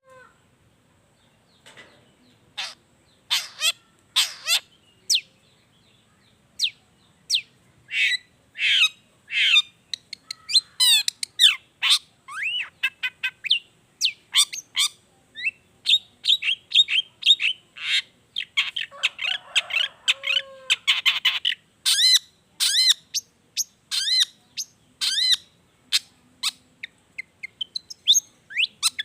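Long-tailed shrike singing a loud, varied song of short, sharp chirps, squawks and whistled notes mixed with mimicked calls of other birds. The notes are spaced out at first and come in quick, dense runs from about eight seconds in.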